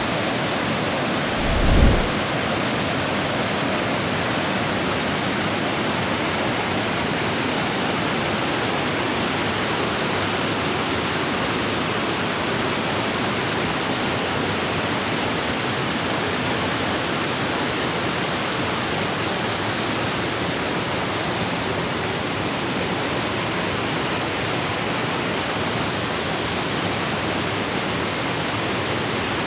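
Steady rush of falling water from a river waterfall, an even hiss with a thin high-pitched whine on top. There is a brief low thump about two seconds in.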